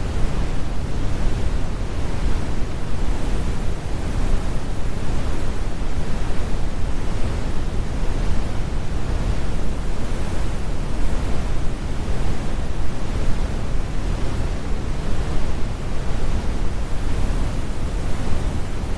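Steady brown noise: an even, deep rumble, generated by computer with the harsh high frequencies filtered out.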